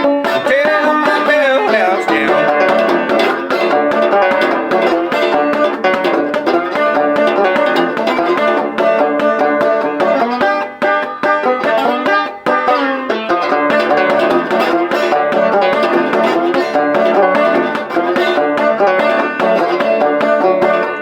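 Six-string banjo-guitar played clawhammer style with a slide, running through a blues riff. There are sliding pitch glides right at the start and again about ten to thirteen seconds in.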